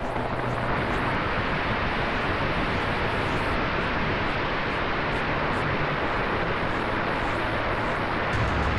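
Twin 64mm electric ducted fans of an E-flite A-10 RC jet running in flight: a steady jet-like rush with a faint steady tone, the low rumble growing a little stronger near the end.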